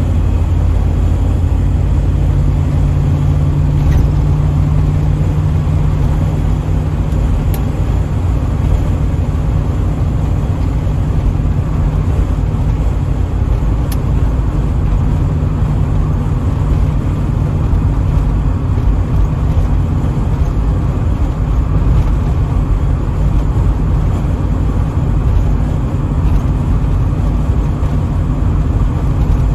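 1984 Pontiac Trans Am cruising at steady highway speed: a constant low engine drone with road and tyre noise, no change in revs.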